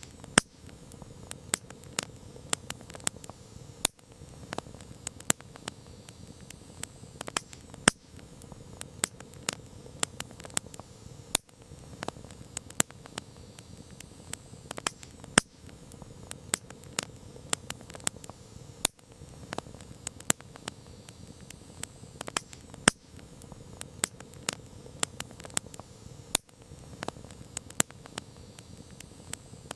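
Campfire of burning wood crackling, with frequent irregular snaps and a few louder pops over a steady low hiss of the flames.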